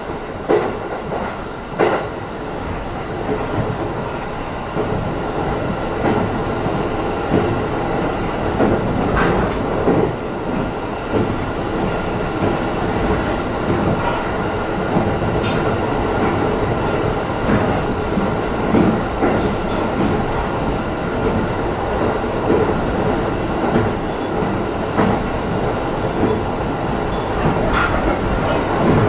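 E531-series electric train running between stations, heard from inside the passenger car: steady wheel-and-rail running noise with occasional clicks from the wheels over the track, growing somewhat louder over the first ten seconds.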